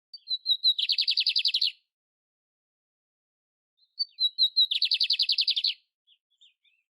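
Canary singing two phrases. Each opens with a few short descending notes and runs into a fast, even trill lasting about a second. The second phrase starts about four seconds in.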